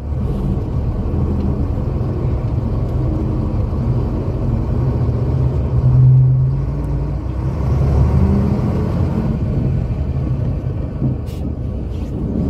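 Scania K82SR coach's diesel engine running, a steady low drone that swells twice, about halfway through and again a couple of seconds later. A few light clicks near the end.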